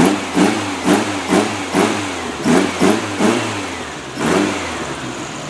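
Rebuilt 1641 cc Volkswagen air-cooled flat-four with dual carburettors and a header exhaust, its throttle blipped by hand at the carburettor linkage: a quick string of short revs, about two a second, each rising and dropping straight back to idle, with one last rev after a short pause. The fast rise and fall shows how quickly the engine responds to the throttle.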